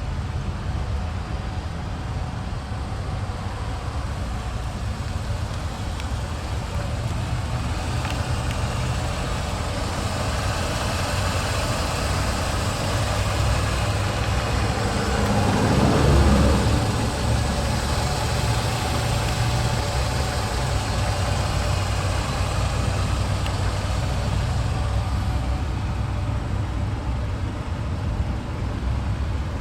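A car engine idling steadily, with another vehicle passing by about halfway through, getting louder and then fading.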